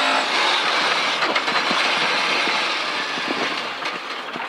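Rally car slowing for and turning through a hairpin, heard from inside the cabin: a dense wash of engine, drivetrain and tyre noise with scattered knocks from the car's underside. The noise eases off through the turn and builds again near the end as the car pulls away.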